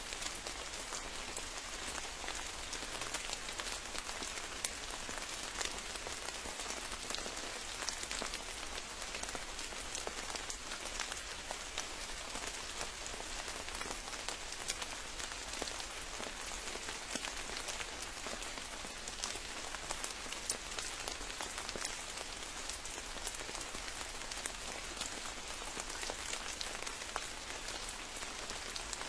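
Steady rain falling, with many distinct close drop hits over an even hiss.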